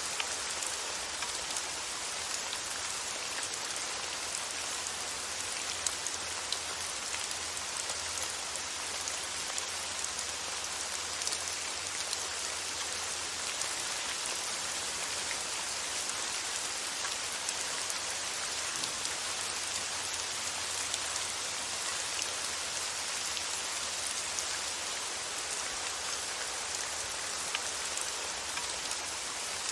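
Steady rain falling, a continuous hiss with the light patter of many drops landing on a surface.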